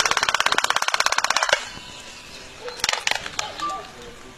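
A bird's fast rattling call: a rapid run of sharp clicks, roughly fifteen to twenty a second, lasting about a second and a half. It is followed by a few scattered clicks and short, faint chirps.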